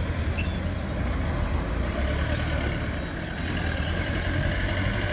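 Steady low rumble of a motor vehicle's engine running, over a background of street noise.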